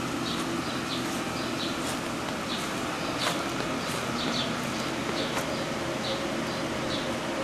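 Birds chirping, short high notes repeating every second or so over a steady background hiss, with a few faint clicks.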